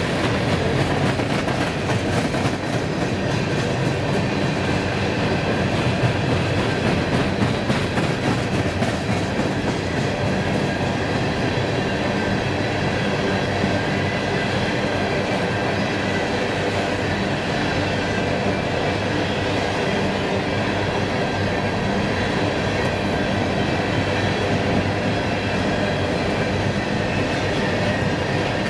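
Railroad cars rolling steadily past on the track, with wheels clacking over the rail joints and faint steady high-pitched wheel tones. The clacking is thickest in the first third.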